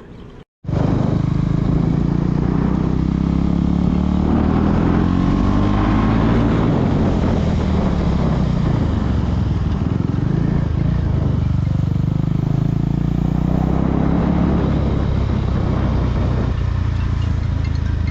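KTM Duke 390's single-cylinder engine running under way, its pitch rising and falling as the bike accelerates and eases off. It comes in suddenly just under a second in.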